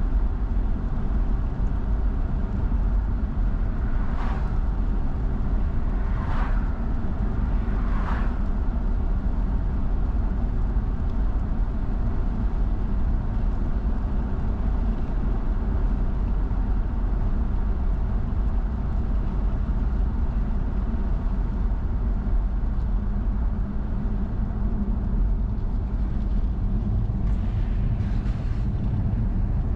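Car driving on wet roads: steady low road and engine noise with tyre hiss. Three brief swishes about two seconds apart come early in the stretch, and a fainter one near the end.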